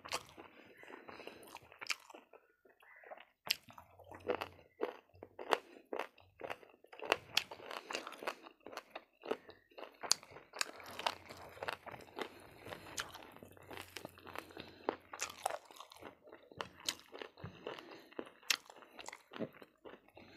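Close-up chewing of boiled-then-fried pig's ear, with many sharp, irregular crunches as the tough, gristly ear is slowly chewed.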